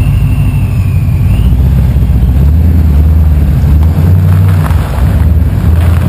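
All-wheel-drive Oldsmobile Cutlass's engine running loud and hard during a burnout. The exhaust note dips briefly about four seconds in, then comes back.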